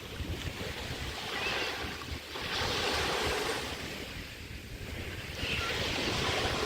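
Small waves washing onto a bay beach, swelling and ebbing in two surges, with wind rumbling on the microphone.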